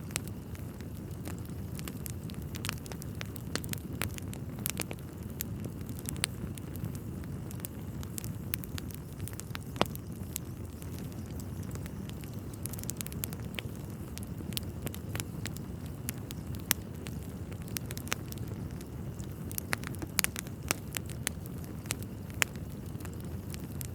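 Wood fire burning in a fireplace: a steady low rumble of flames with sharp crackles and pops scattered irregularly throughout.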